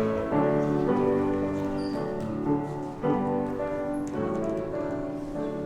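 Piano playing the introduction to a closing hymn: a run of sustained chords that change about every half second to a second, fading toward the end.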